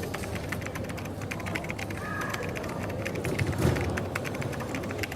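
Rapid clicking of keyboard typing over the low murmur of a busy café, with a low thump about three and a half seconds in.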